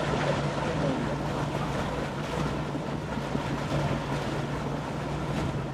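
A boat's engine runs with a steady low hum, under wind and water noise.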